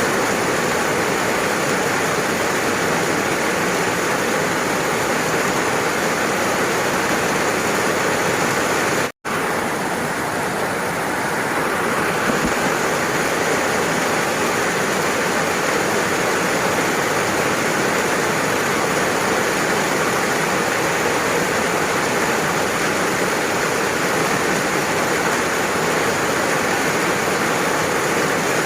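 Steady, dense rain hiss with no distinct drops or thunder, broken by a split-second drop to silence about nine seconds in.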